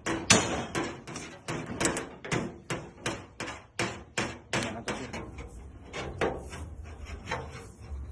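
Hammer striking sheet metal in body-panel repair: a steady series of sharp blows, about two or three a second, getting lighter over the last couple of seconds.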